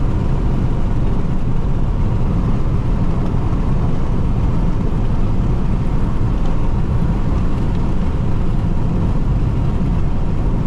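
Steady cabin noise of a Jeep Renegade diesel cruising at high speed, mostly a low, even rumble of engine and tyres on the road.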